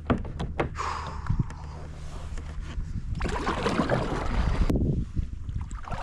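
Water sloshing and splashing around a fishing kayak on the move, with a few sharp knocks near the start and a louder splashy stretch in the middle.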